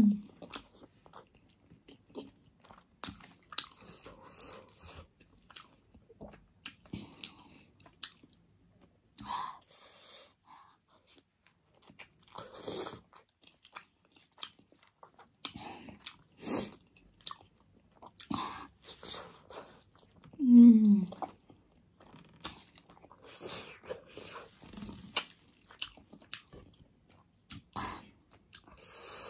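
Close-miked chewing and wet mouth sounds of a person eating big juicy pork momos, coming in scattered short bursts. About twenty seconds in there is a short low hum that falls in pitch, the loudest sound in the stretch.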